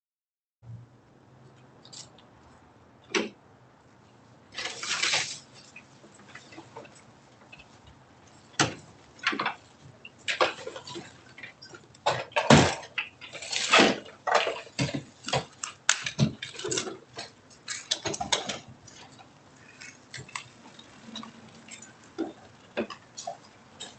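Irregular clattering knocks and rattles with a few short scraping bursts, thickest in the middle stretch and thinning out towards the end.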